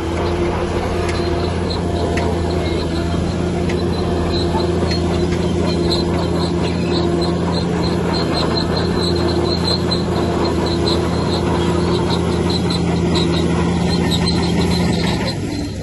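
Bulldozer's diesel engine running steadily, with a rapid, repeated high squeak and clink from its steel tracks.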